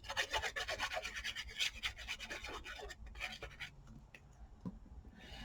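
Quick scratchy rubbing on paper for about three and a half seconds, then a few light ticks and taps as it eases off.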